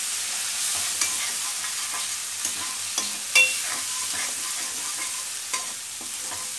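Prawns and spice masala sizzling in a wok while a steel spatula stirs and scrapes them, tapping the pan now and then, with one sharp clink about halfway through. This is the masala being fried down (kosha) in oil.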